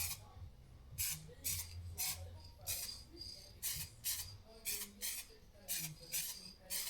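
Aerosol can of base coat paint spraying in short hissing bursts, about two a second, as light passes are laid over the bumper repair.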